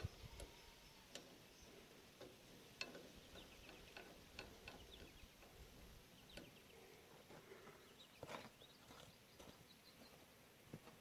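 Faint, irregular small metal clicks and ticks, roughly one a second, from hand work on a set screw being threaded onto the crimper drive shaft of a New Holland 495 haybine, which keeps trying to cross-thread.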